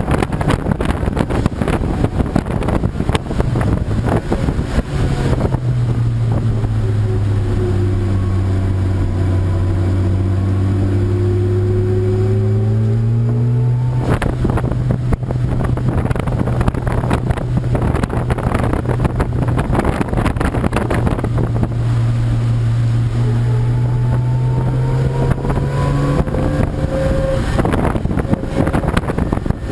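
Race car engine note rising and falling in pitch through the middle of the stretch, with heavy wind buffeting on the microphone at the start and end.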